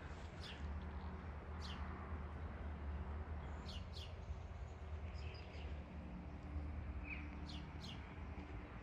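Small birds chirping: short, high, downward-sweeping chirps every second or two, over a low steady rumble.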